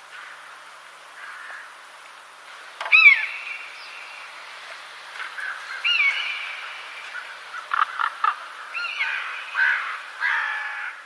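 Bird calls: loud calls dropping sharply in pitch about 3, 6 and 9 seconds in, with quieter chirps and warbling between them, over a faint steady hiss.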